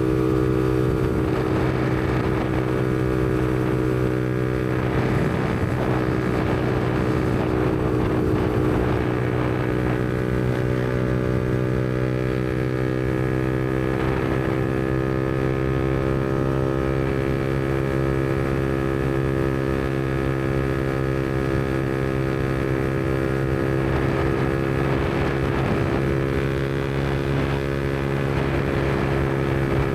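Yamaha MT-125's single-cylinder four-stroke engine running steadily through an aftermarket Black Widow exhaust while cruising, its pitch holding nearly constant with only slight dips and rises.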